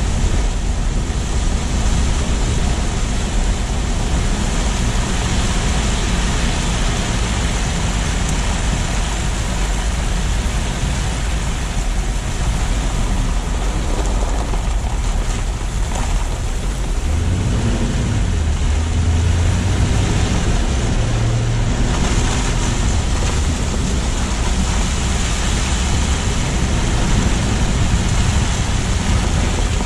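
Car driving, with steady road and wind noise from a low-mounted action camera. About halfway through, a low engine note rises in pitch for a few seconds and then fades back into the noise.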